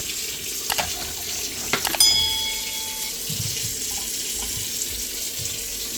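A tap running steadily. A few clicks come through it, and about two seconds in there is a sharp metallic clink that rings for about a second.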